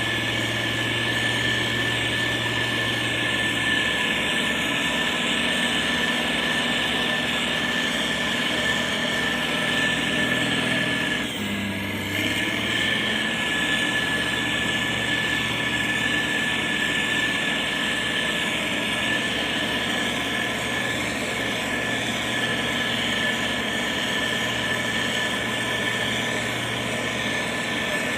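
Motor grader's diesel engine running steadily under work, with a steady high whine over the engine note. About twelve seconds in the sound dips briefly and shifts.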